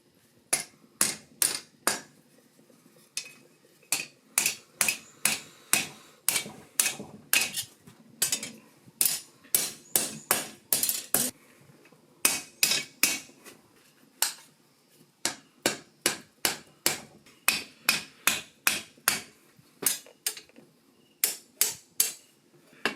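Hand hammer striking hot steel on an anvil while forging, a sharp ringing blow about two to three times a second, in runs broken by short pauses.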